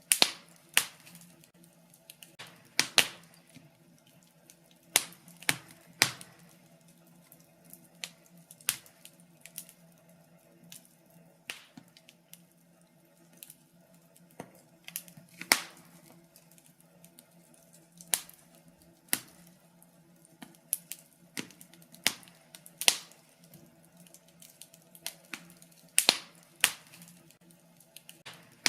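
Wood fire in a fireplace crackling: irregular sharp pops and snaps, a few of them loud, over a faint low hum.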